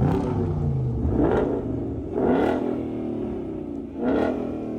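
A car engine being revved in four quick blips, each one rising sharply in pitch and then dying back down.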